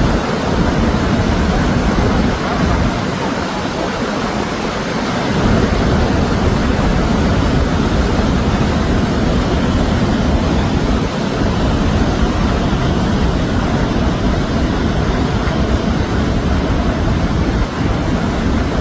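Steady loud rush of a large waterfall heard up close, Niagara's Bridal Veil Falls, with a heavy low rumble that wavers in strength.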